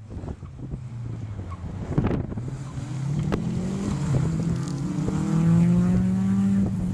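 Rally car engine accelerating hard through the gears: its pitch climbs, drops back at each upshift, then climbs again, growing louder toward the end.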